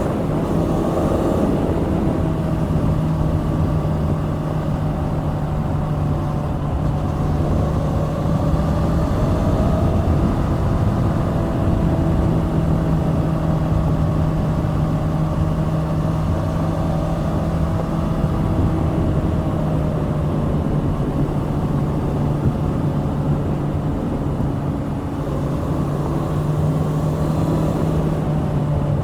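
Kawasaki Z650's liquid-cooled 649 cc parallel-twin four-stroke engine under way on the road, pulling up in pitch briefly at the start and then holding a fairly steady cruising note over a low rush of noise.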